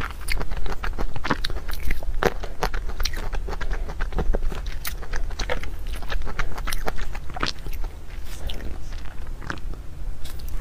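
Close-miked eating sounds: chewing and smacking on a mouthful of cream puff, heard as many short, irregular clicks.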